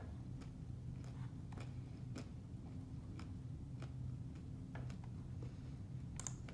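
Light clicks and taps every half second to a second over a steady low hum, with a sharper click near the end.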